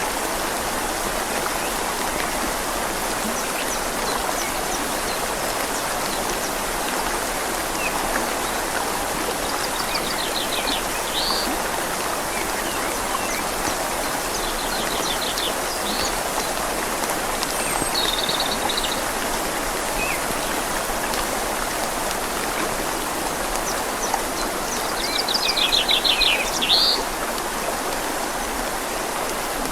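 Steady rain falling on leaves over the even rush of a flowing river. A bird calls in short, rapid trills several times, loudest about 25 seconds in.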